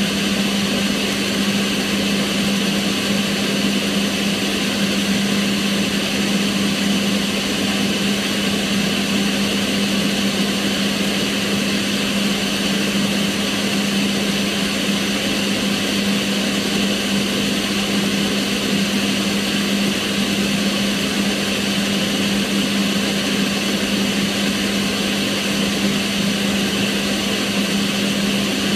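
Kitchen range hood extractor fan running steadily: an even rush of air with a steady low hum from the motor.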